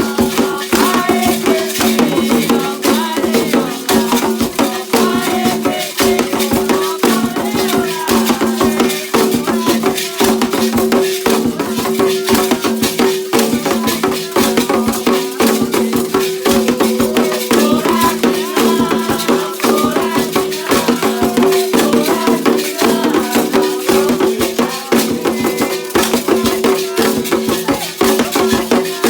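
Candomblé ceremonial music: a rattle shaken in a fast, steady rhythm over percussion, with voices singing.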